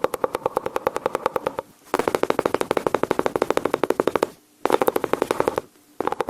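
Mouth sounds imitating machine-gun fire, close to the microphone: a fast, even rattle of sharp clicks in runs, broken by three short pauses.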